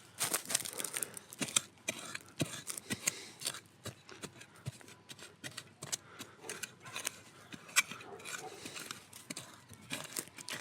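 Dry campfire kindling crackling and snapping: irregular sharp clicks with a light rustle between them.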